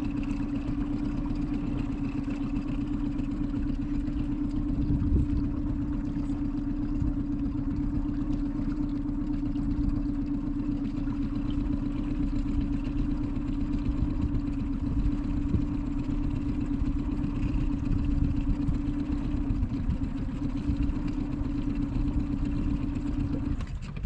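A small boat's motor running at a steady speed, with a constant hum and low rumble. It cuts off shortly before the end.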